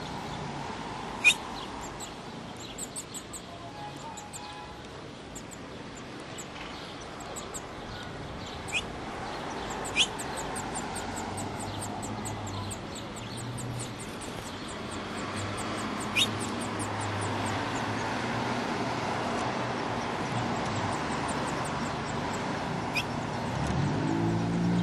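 Small birds chirping: a few sharp, loud chirps and runs of very high, thin notes repeated rapidly, over a steady low background hum.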